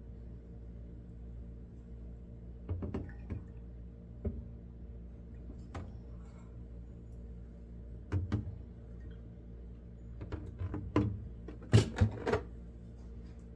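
Milk jugs and glass jars being handled: scattered knocks and clicks of containers set down and moved, the loudest few near the end, over a low steady hum.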